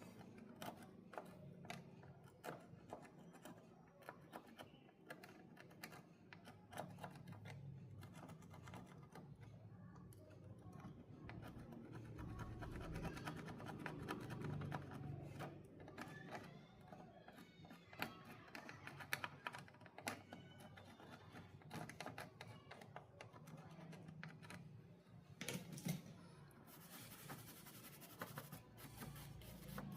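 Faint scattered clicks and scratching from small hand work, under soft background music.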